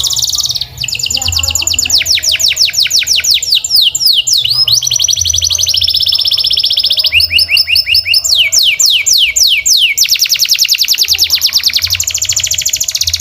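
Domestic canary singing a long unbroken song of rapid trills, switching to a new repeated-note phrase every second or two, some phrases of quick downward-sweeping notes and others of steadier, higher notes.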